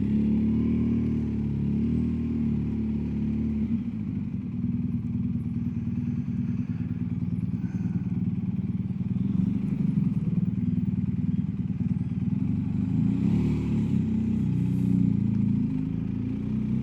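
BMW R1250GSA's boxer-twin engine running as the motorcycle is ridden, its note shifting with engine speed about four seconds in and again near thirteen seconds.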